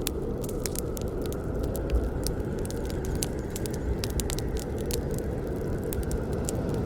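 Campfire burning, with frequent irregular sharp pops and crackles over a steady low rush of the flames.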